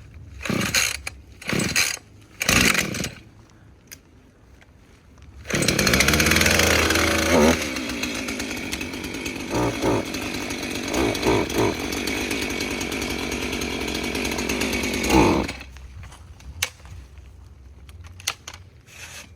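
Husqvarna Rancher 450 two-stroke chainsaw blipped to high revs three times in quick succession, then held at high speed for about ten seconds with the pitch wavering, before dropping back to idle.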